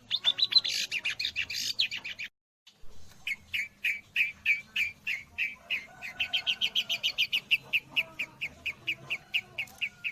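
Long-tailed shrike (cendet) singing mimicked white-rumped shama (murai batu) phrases. A burst of varied song breaks off after about two seconds, and then comes a long run of sharp repeated chirping notes, about five a second.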